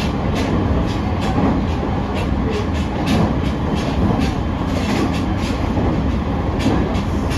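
Interior running noise of a JR East E501 series electric train's motor car at speed: a steady low rumble from the wheels and running gear, with wheels clicking over rail joints several times a second.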